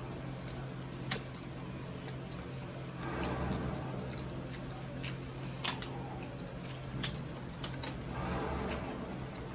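Close-up chewing of crispy deep-fried pork knuckle, with a few sharp crackles from the crisp skin, over a steady low hum.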